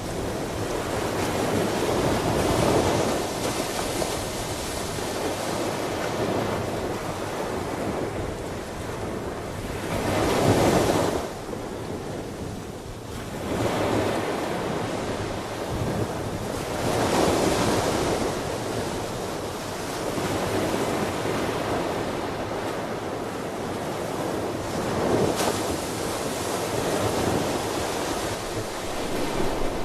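Ocean surf: waves breaking and washing in, swelling louder every several seconds, over a steady rush of water.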